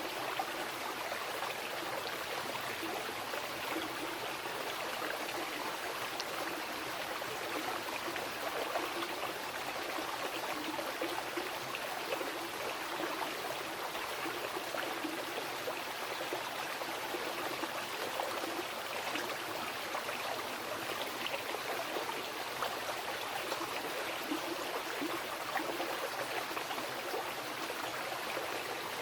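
Mountain river rushing and splashing over rocks: a steady, unbroken water noise.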